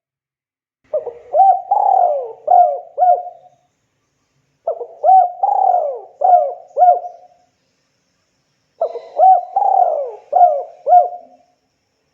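Spotted dove cooing: three matching phrases about four seconds apart, each of about five hooting notes with one longer, drawn-out note in the middle.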